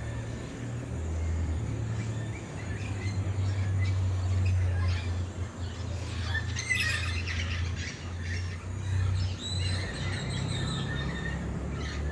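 Several birds chirping and calling, thickest in the second half, over a steady low rumble.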